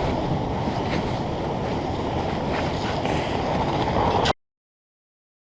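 Steady rushing water of river rapids, which cuts off suddenly a little over four seconds in into dead silence.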